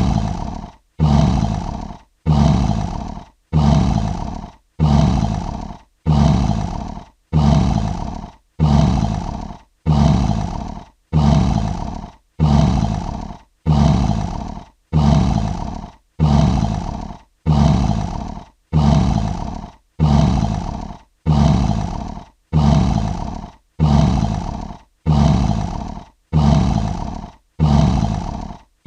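A lion's short roaring grunt repeated about once a second. Each grunt starts loud and fades, and every one is alike, as in a looped sound effect.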